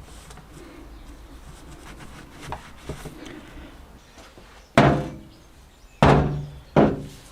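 Three hard knocks during workshop disassembly, each ringing briefly: one about five seconds in, then two close together about a second later, over faint scraping.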